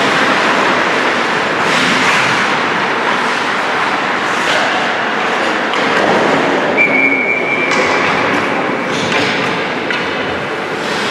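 Ice hockey play on a rink: skates scraping on the ice, with sticks and puck knocking, and a short steady whistle blast about seven seconds in.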